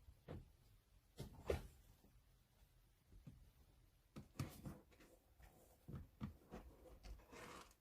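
Faint, scattered light taps and soft thumps with a brief rustle near the end, the sounds of kittens moving and playing about; the loudest thump comes about one and a half seconds in.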